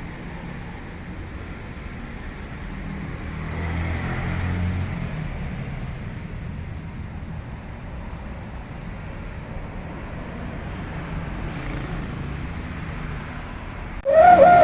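Toyota Innova engine running through an aftermarket stainless-steel 'wolf' exhaust, a steady low sound that swells briefly about four seconds in. Near the end the exhaust's howl starts abruptly and loud.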